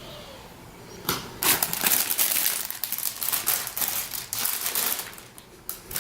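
Plastic packaging crinkling and rustling as resin model-kit parts are handled, starting about a second in in irregular crackly bursts, with a short lull near the end.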